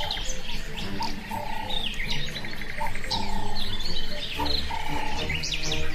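Several birds chirping and calling, with many short, quick notes overlapping throughout.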